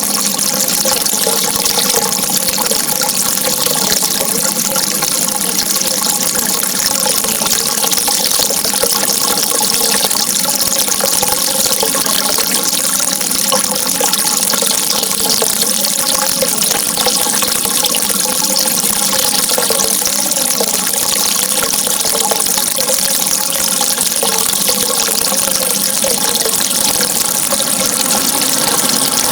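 Steady running water, a continuous even rush with no breaks, with faint sustained tones beneath it.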